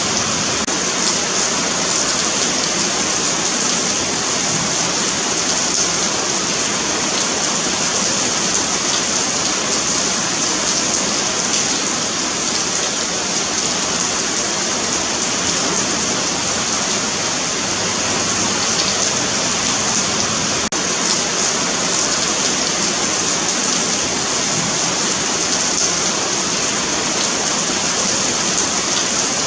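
Steady rain falling on a paved sidewalk, a continuous even hiss of drops spattering on the hard surface.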